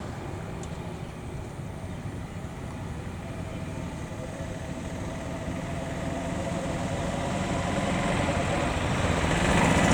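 A motor vehicle engine running, with a steady low rumble that grows gradually louder.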